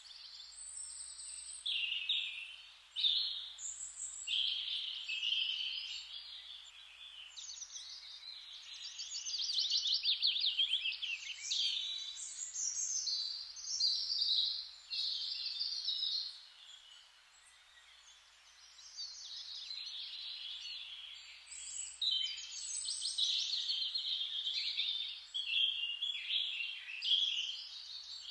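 Songbirds singing in quick chirping and trilled phrases, one after another and overlapping, with a brief lull just past the middle, over a faint steady hiss.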